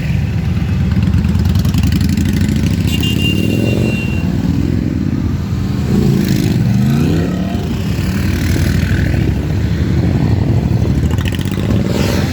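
A group of motorcycles riding past with engines running steadily, and revs rising and falling about six seconds in.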